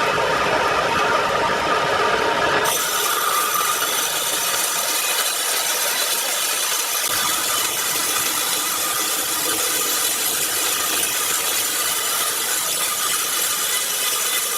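Power saw cutting through timber: a steady, continuous noise that turns higher and hissier about three seconds in.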